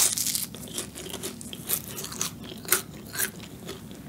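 A person biting into and chewing a black sesame tart with a crisp pastry shell, close to the microphone: a loud crunch as the bite goes in, then scattered crisp crunches of the crust.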